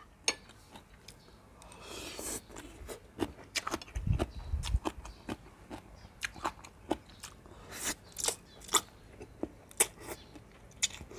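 Close-up eating sounds of a person chewing papaya salad with raw vegetables and rice noodles: irregular wet clicks and crunches. There is a low thud about four seconds in.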